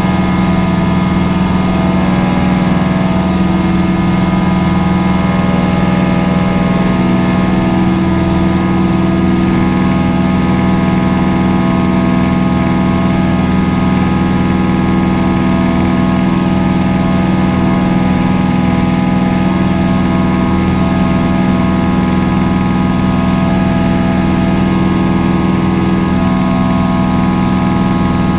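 Steady, loud drone of a propeller airplane's engine in flight, running at an even pitch.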